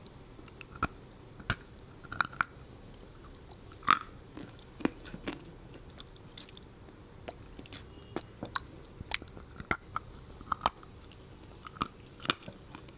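A person chewing and biting crunchy food, with irregular sharp crunches.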